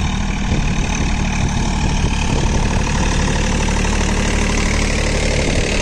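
John Deere 3028EN mini tractor's three-cylinder diesel engine running steadily while pulling a ridger.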